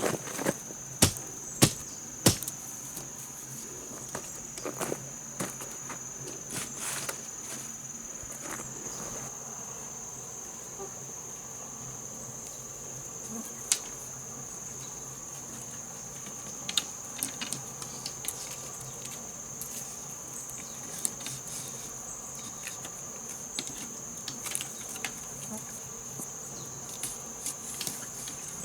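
Steady, high-pitched drone of insects. Scattered sharp knocks cut through it, several close together in the first couple of seconds and a few more later on.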